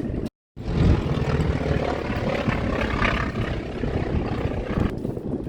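Propeller airplane flying past, its engine and propeller noise swelling to a peak about three seconds in and then easing, with wind rumbling on the microphone. A brief moment of silence comes right near the start.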